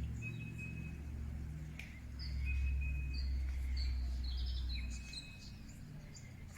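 Birds calling with short, high chirps and whistled notes, over a low rumble that eases off about five seconds in.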